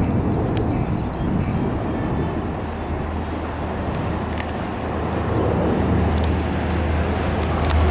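Long Island Rail Road diesel train approaching, its low engine drone growing steadily louder over the second half.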